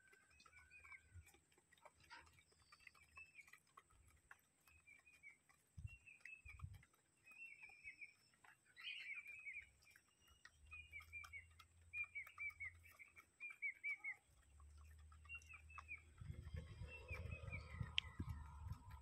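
Faint birds chirping: a long run of short falling chirps repeated several times a second, with a low rumble in the last few seconds.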